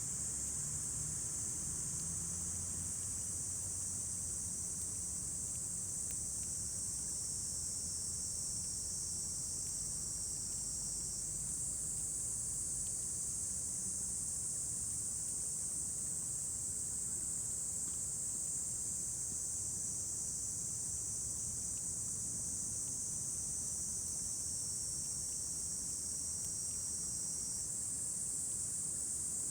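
A steady chorus of summer insects: one continuous shrill, high-pitched trilling that shifts slightly in pitch partway through, over a faint low hum.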